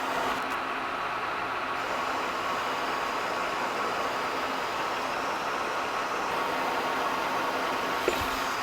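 A machine-shop machine tool running steadily, an even mechanical hum with a few steady tones. A single sharp click comes near the end.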